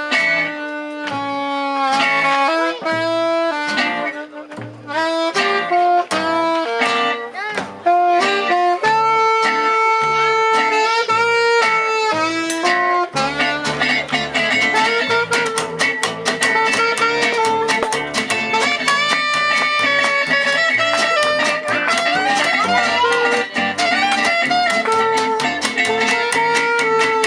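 A jazz manouche band playing live, with guitars and a melody line over a walking bass. About halfway through, the guitar accompaniment thickens into dense, rapid rhythmic strumming.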